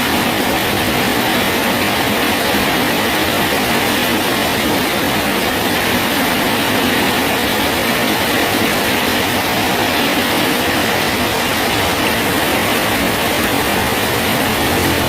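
Steady rain falling on a bridge, an even, unbroken hiss with no let-up.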